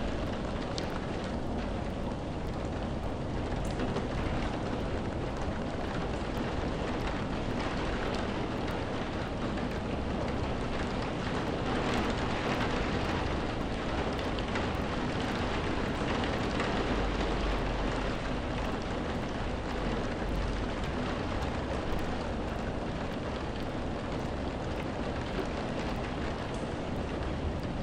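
Steady rainfall, an even dense hiss of drops with no let-up. A low rumble swells in the bass about two-thirds of the way through.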